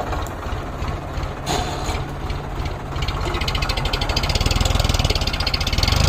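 Tractor diesel engine running with a rapid, even firing beat, growing louder and revving up from about halfway, with a sharp knock about a second and a half in.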